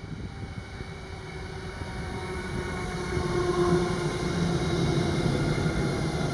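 Electric train approaching, growing steadily louder, with a rumble and a hum of several steady tones.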